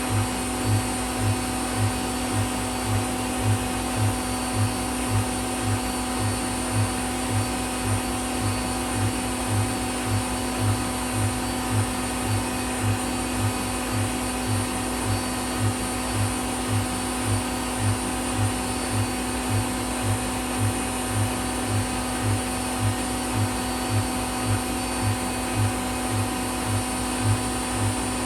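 Whirlpool WWDC 7440 front-loading washing machine on a fast spin, its motor and drum whining steadily with a regular low pulse about twice a second; the owner takes the speed for 1,200 rpm, one step below its 1,400 rpm maximum.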